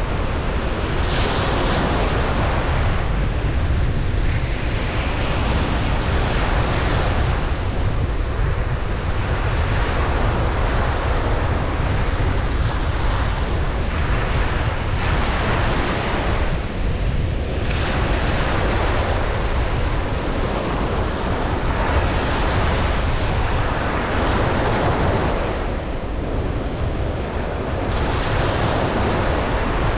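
Ocean waves breaking and washing up a beach, a continuous surf with a swell of hiss every few seconds over a steady low rumble, with wind on the microphone.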